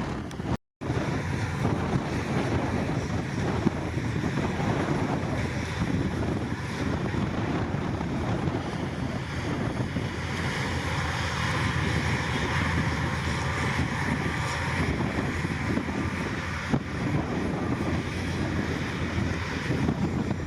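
Heavy diesel machinery running steadily, with wind noise on the microphone. The sound cuts out briefly to silence less than a second in.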